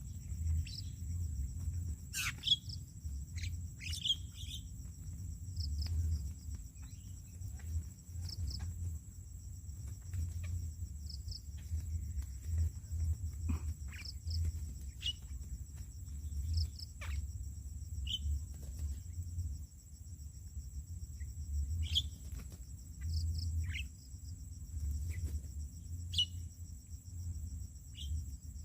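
Scattered short bird chirps, a few every couple of seconds, over a steady high insect drone and a low rumble.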